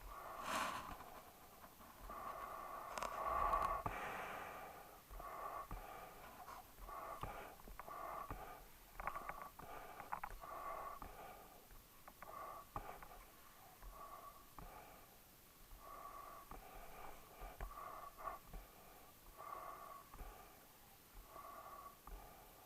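A dog breathing noisily, one short raspy breath about every second, louder for the first few seconds.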